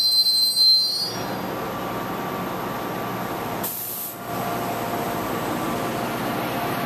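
MBTA commuter train passenger coaches rolling past the platform: a high-pitched wheel squeal fades out about a second in, then a steady rumble of the cars rolling on the rails.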